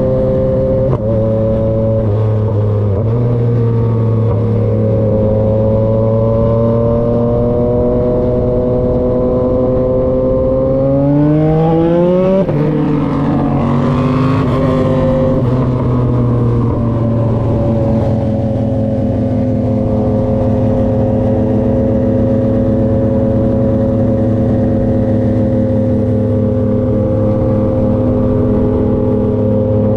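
Yamaha XSR900's inline-three engine through an SC-Project CRT exhaust, running at steady cruising revs. About ten seconds in, the revs climb, fall back, climb again and then settle to a steady cruise.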